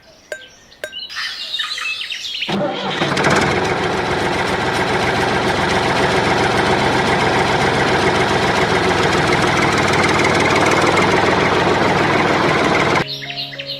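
A few bird chirps, then a small motor starts about two and a half seconds in and runs loud and steady for about ten seconds before cutting off suddenly near the end.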